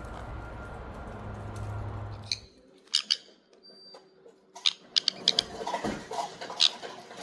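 A steady low hum that cuts off about two and a half seconds in, then pet parrots making small sounds: sharp clicks, brief chirps and a short high whistle.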